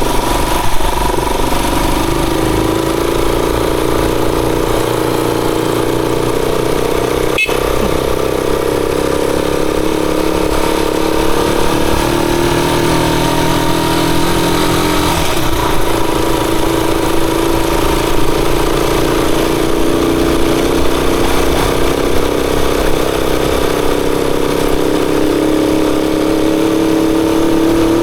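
Rusi Chariot 175 motorcycle engine running steadily, its pitch drifting slightly partway through and rising a little near the end. A single sharp click comes about seven seconds in.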